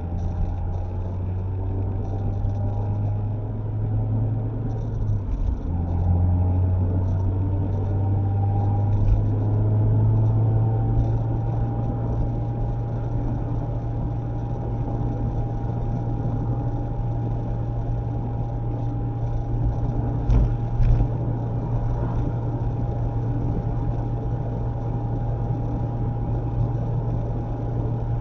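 Mazda MX-5 ND on the road, heard from inside the cabin: a steady low drone of engine and tyres. A rising whine as it accelerates breaks off about five seconds in at a gear change and then rises again, settling into an even tone at cruising speed. Two short thumps come about twenty seconds in.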